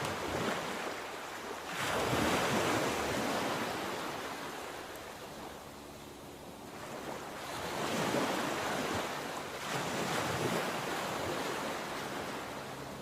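Sea waves breaking and washing in, the surf swelling about two seconds in, easing off, and surging again around eight seconds.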